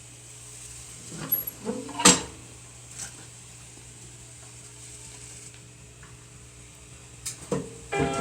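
A few scattered sharp knocks and clacks of hard objects being handled, the loudest about two seconds in and two more near the end, over a faint steady hum.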